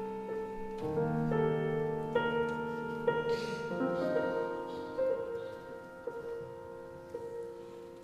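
Quiet classical concerto passage led by piano, with soft notes struck about once a second over sustained tones, the music slowly dying away toward the end.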